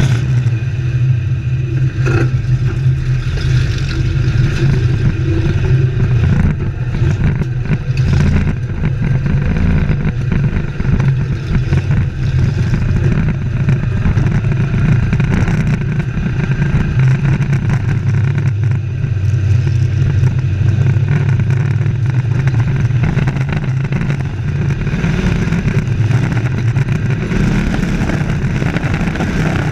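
Race truck engines running together on an oval track, a loud, steady, low drone with no clear rise or fall.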